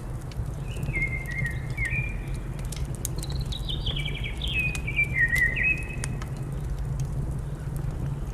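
Wood fire crackling with scattered sharp snaps over a steady low rumble. A songbird sings two phrases of clear whistled notes stepping down in pitch, about a second in and again from about three to six seconds in.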